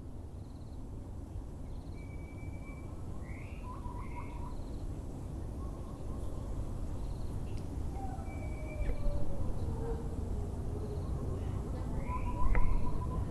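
Several birds calling over a steady low background rumble: short whistled notes and chirps, with quick low trills about four seconds in and again near the end. A longer call falls slowly in pitch through the middle.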